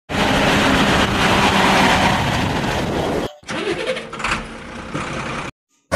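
Vehicle engine running, heard as two edited clips: a louder stretch, a sudden cut a little past three seconds to a quieter one, which breaks off shortly before the end.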